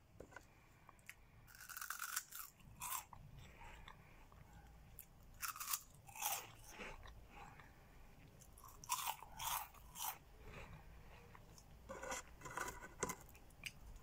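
Crunching and chewing of Cheetos Colmillos, a crunchy corn-puff snack, in short crisp crunches that come in clusters every few seconds with quiet pauses between.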